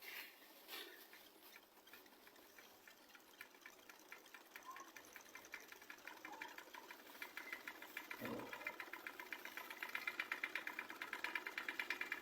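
Small motor of a homemade toy tractor running with a fast, even clatter that grows steadily louder. There is a brief low thump about eight seconds in.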